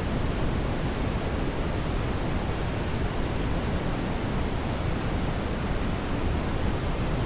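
Steady brown noise: an even, unbroken hiss, heaviest in the low end like a deep rumble, with no changes.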